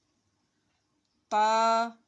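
Near silence, then about a second and a quarter in a woman's voice holds one long, steady spoken syllable for about half a second.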